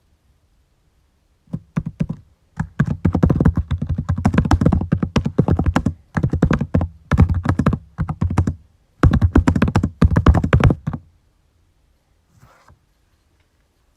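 Computer keyboard typing in fast bursts of keystrokes, with short pauses between runs, stopping about three-quarters of the way through.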